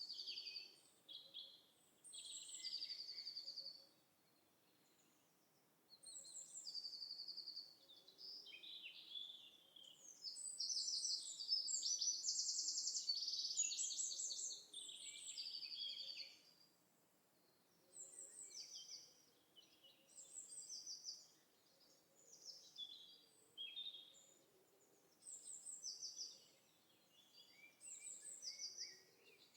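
Birds singing: short chirped phrases repeating every second or two, with a longer run of rapid trills in the middle.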